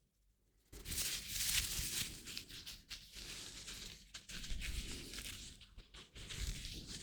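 Close-miked ASMR hand sounds: hands rubbing and rustling against each other, starting suddenly after a brief silence and going on in uneven swells of crinkly noise.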